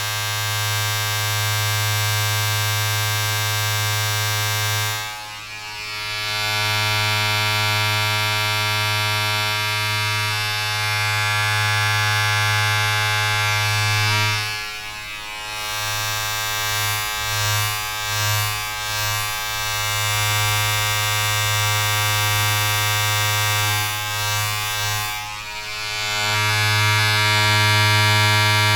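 Steady electric buzz of a small motor with many overtones. It dips briefly about every ten seconds and wavers for a couple of seconds in the middle.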